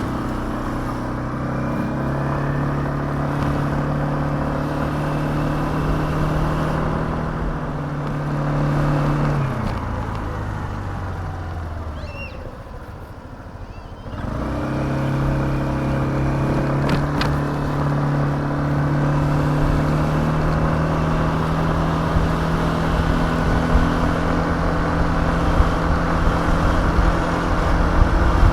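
Suzuki Address 125 scooter's single-cylinder four-stroke engine running at a steady cruising speed, with wind rush. About ten seconds in, the engine note falls away as the scooter slows and goes quieter. It picks up again at a steady pitch about fourteen seconds in.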